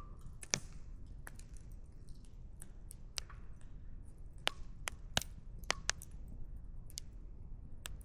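Wood fire crackling: burning firewood snapping and popping in about a dozen sharp, irregular cracks over a low, steady rumble.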